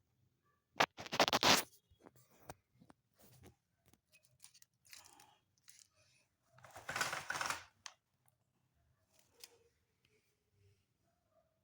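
Scratching and scraping in two louder bouts, about a second in and again about seven seconds in, with quieter scrapes and small clicks between.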